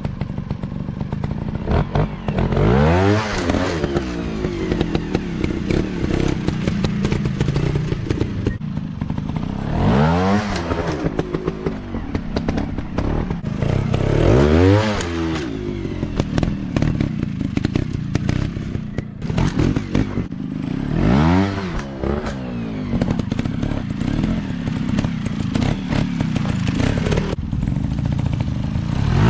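Motocross dirt bikes running loudly, the engine pitch sweeping up sharply four times as they rev and accelerate, with steadier running in between.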